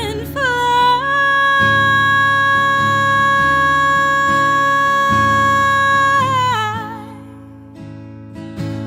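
Soul song: a singer holds one long high note for about five seconds, with a wavering vibrato as it ends, over acoustic guitar strumming; the guitar carries on alone near the end.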